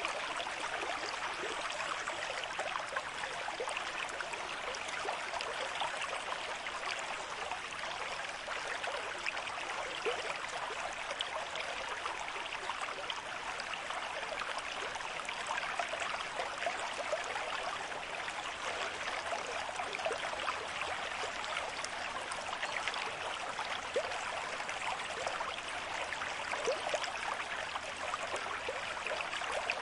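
A river stream with moderate flow, water rushing and splashing steadily over rocks with many small gurgles.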